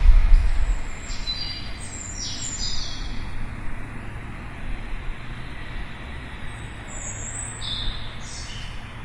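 Small birds chirping in short high notes, one cluster a second or so in and another near the end, over a steady low rumble that swells briefly at the start.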